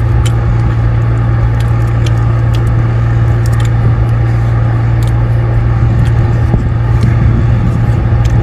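A boat's engine running with a steady low drone, with scattered light clicks and crackles over it.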